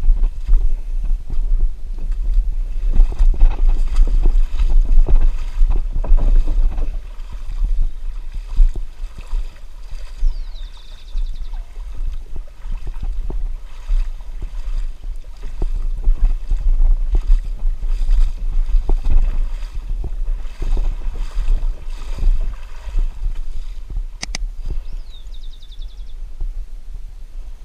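Water sloshing and splashing around a kayak, with a steady low wind rumble on the microphone.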